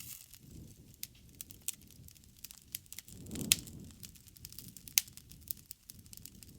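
Bonfire crackling: irregular sharp pops and snaps over the low rush of the flames. The flames swell briefly about three seconds in, with a louder snap there and another about five seconds in.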